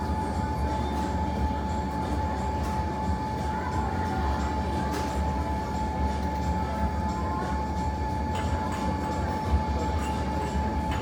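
Steady low mechanical rumble with a constant hum, with a few faint clicks.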